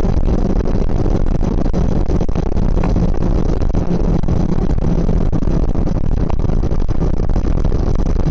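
Suzuki GSX650F motorcycle's inline-four engine running at a steady speed while under way.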